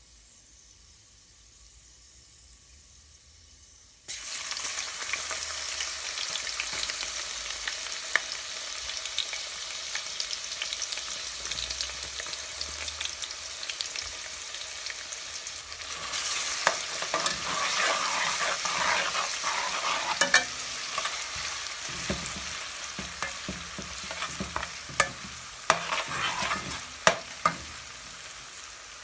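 Quiet at first, then about four seconds in a sudden sizzle as food goes into hot oil in a pan. The frying carries on and swells about halfway through, and towards the end a cooking utensil knocks and scrapes against the pan as it is stirred.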